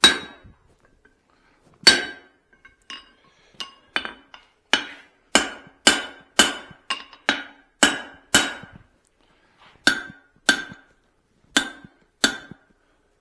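Hand hammer striking hot steel on an anvil, forging a small cross peen hammer head: a string of sharp metallic blows at an uneven pace, up to about two a second, each with a short ring, with a pause of over a second near the end.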